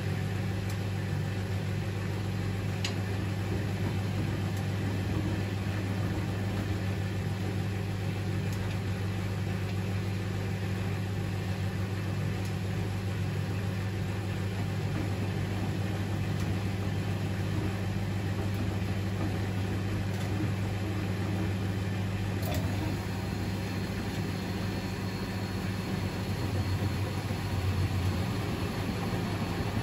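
Privileg 3001 S washing machine running with a steady motor hum. About 22 seconds in there is a click, after which a faint high whine sets in.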